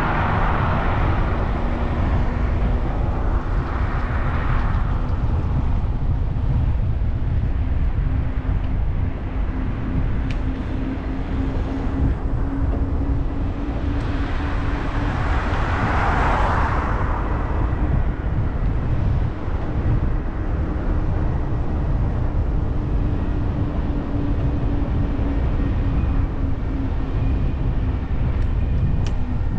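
Steady wind rumble on the microphone of a moving e-bike, with a faint steady hum. Vehicles pass twice, swelling up and fading, once at the start and again about halfway through.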